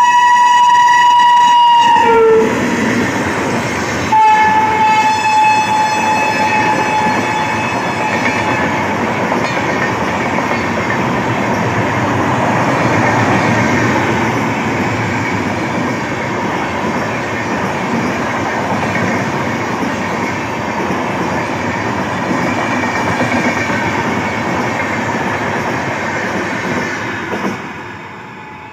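Indian Railways Tapti Ganga Express train sounding its horn in two long blasts: one ends about two seconds in, the other starts about four seconds in. Then comes the steady rumble and clickety-clack of the train running on the rails, which drops away near the end.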